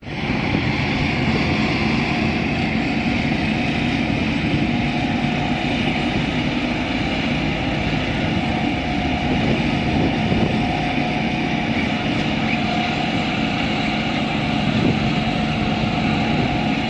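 Steady engine noise of vehicles idling, holding an even pitch with no revving.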